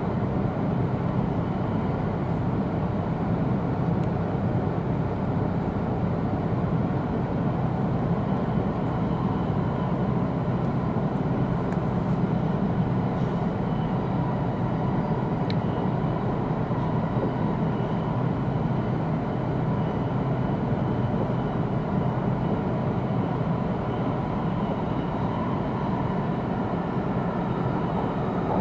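Steady rumble and running noise heard inside a passenger car of an E2-series Shinkansen train travelling along the line, with a few faint ticks.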